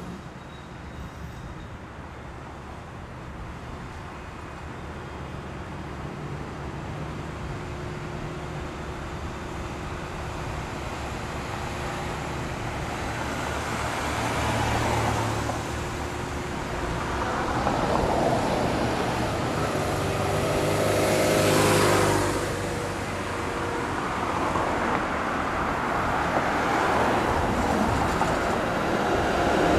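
Road traffic on a city street, with several motor vehicles passing one after another. The passes grow louder about halfway through, and the loudest comes about two-thirds of the way in, carrying a brief pitched hum.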